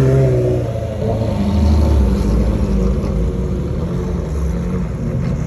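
A car engine running with a low, steady rumble.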